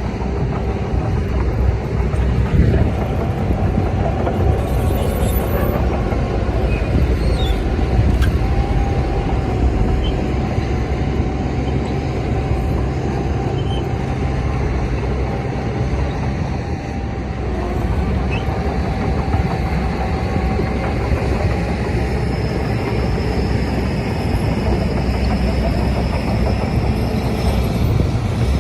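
Crawler bulldozer's diesel engine running steadily under load, a dense low rumble with a faint steady whine above it.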